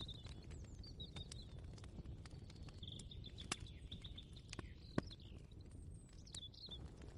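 Birds chirping, with one longer trill in the middle, over a low steady rumble of room ambience. Scattered light clicks and taps run through it, with a sharper knock about five seconds in.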